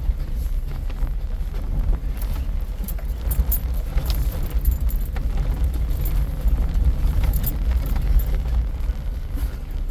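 Steady low rumble of a Jeep driving slowly over a rough off-road trail, heard inside the cabin, with frequent light rattles and clicks as the vehicle jolts.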